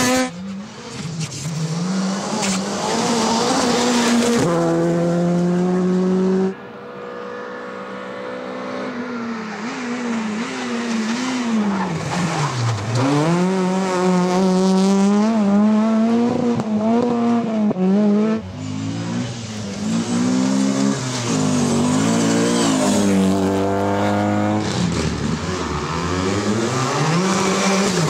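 Rally cars' engines revving hard and dropping through gear changes as they drive through a stage. Several passes are cut together, with abrupt changes about six seconds in and again past the eighteen-second mark.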